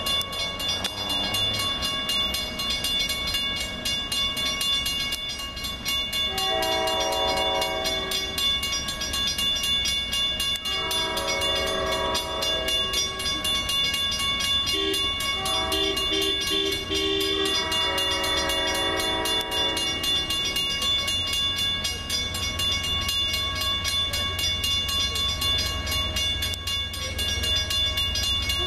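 Train horn of several chord tones sounding the long, long, short, long grade-crossing signal, over the steady low rumble of a train.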